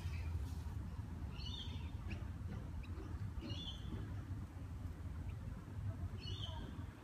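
A bird calling three times, short high chirps about two seconds apart, over a steady low rumble.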